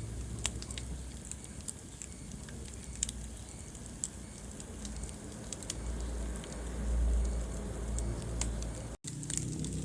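Wood fire burning in a fireplace: a low steady rumble of flames with irregular sharp crackles and pops, the loudest about half a second and three seconds in. The sound drops out for an instant about nine seconds in.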